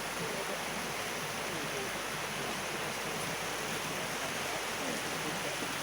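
Steady rushing of the King River's flowing water.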